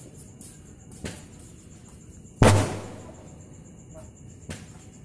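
Fireworks going off: one loud bang about two and a half seconds in that dies away over half a second, with fainter pops about a second in and near the end.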